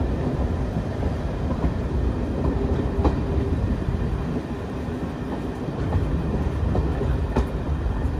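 A train heard from aboard a coach as it runs along the track: a steady low rumble of wheels on rails, with a couple of sharp clicks.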